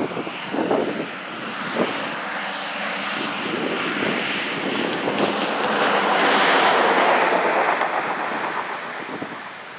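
An airplane passing, its noise swelling slowly to a peak about six to seven seconds in and then fading away.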